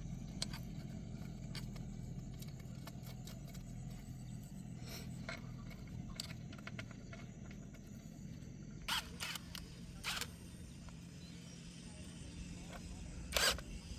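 Scattered light clicks and scrapes of hand work on metal, with a few sharp knocks, the loudest near the end, over a steady low hum.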